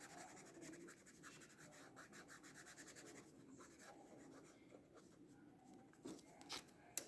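Faint scratching of a Master's Touch acrylic paint marker's nib drawing on mixed media paper, with a couple of slightly louder ticks near the end.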